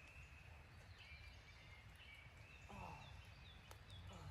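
Near silence: faint songbirds chirping over a low steady rumble.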